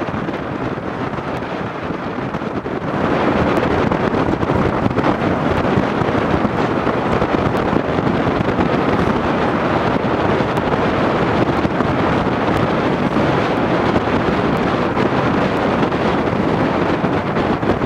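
Strong wind buffeting the microphone, a loud rushing roar that grows louder about three seconds in.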